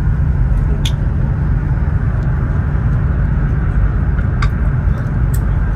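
Cabin noise of a Chinese high-speed bullet train running at about 345 km/h: a loud, steady low rumble with a few brief high clicks.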